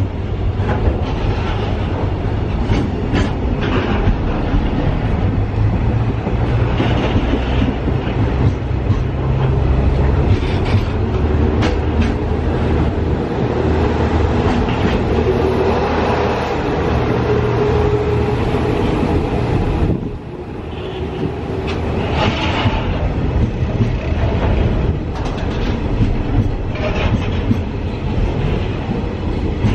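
Freight train of Koki 107 container flat wagons rolling past at close range: a steady rumble with the wheels clacking over rail joints. The noise dips briefly about twenty seconds in, then builds again.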